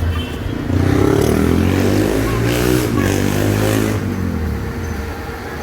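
An engine heard over a steady low rumble, rising and then falling in pitch as it passes close by between about one and four seconds in.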